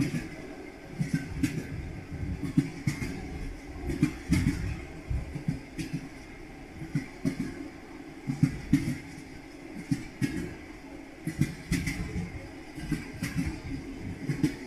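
Train wheels clattering over rail joints, the rhythmic clickety-clack of a moving train: groups of knocks every second or two over a steady low rumble.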